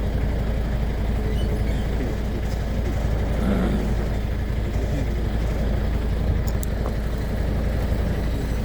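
Truck engine running steadily with vehicle noise, a constant low rumble.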